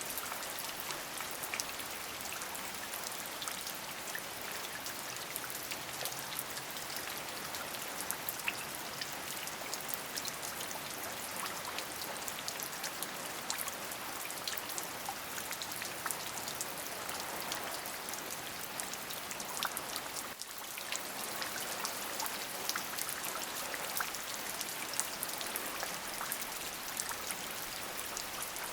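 Steady rain falling, a dense even hiss full of small clicks from individual drops, with a brief dip in level about twenty seconds in.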